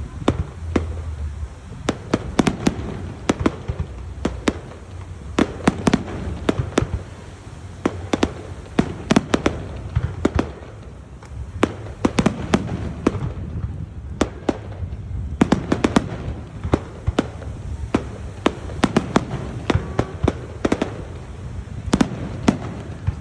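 Fireworks display: a rapid, irregular series of sharp bangs and cracks from exploding aerial shells, often several a second, over a low rumble, with brief lulls.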